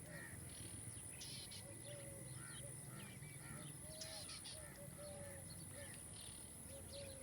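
Faint chorus of wild birds chirping and calling: many quick high chirps overlapping, with a lower, repeated call every second or so. A steady high-pitched whine runs beneath.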